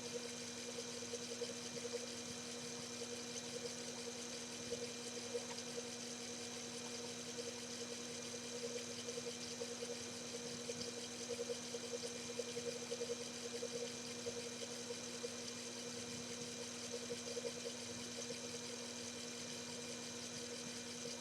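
Small lathe running steadily under power feed, its motor giving an even hum with a faint high whine.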